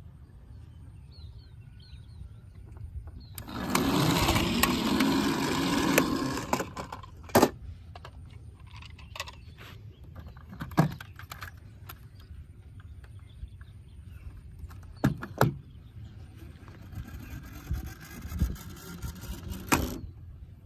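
Toy vehicles being handled and played with: a rumbling, rolling noise for about three seconds starting about three and a half seconds in, then scattered sharp knocks and clicks, two close together near three quarters of the way through.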